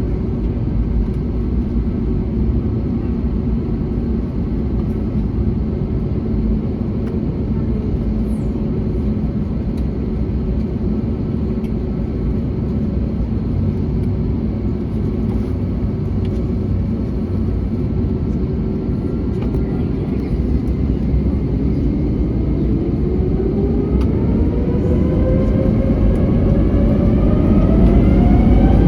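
Airbus A321neo's Pratt & Whitney PW1100G geared turbofans running at a steady low hum, then from about 22 seconds in spooling up with a whine that rises in pitch and grows louder: the thrust increase for the takeoff roll.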